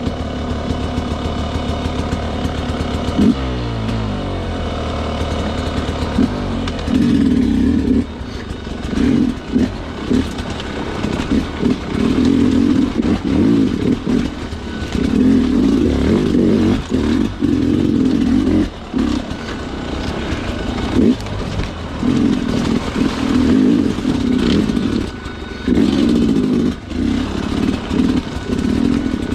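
Sherco two-stroke dirt bike engine idling steadily, changing revs about three seconds in, then ridden off with repeated on-off bursts of throttle from about seven seconds on.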